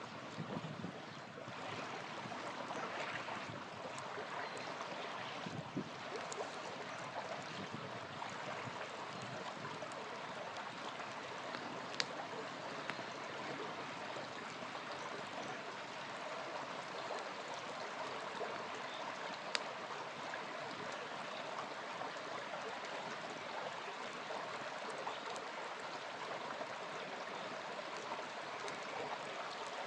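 Small river flowing steadily over stones, with a few sharp pops from a campfire, the clearest about twelve and twenty seconds in.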